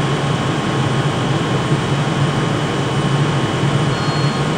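Steady drone of trains standing and moving at a station platform, a constant low hum with noise over it. A faint high whine joins near the end.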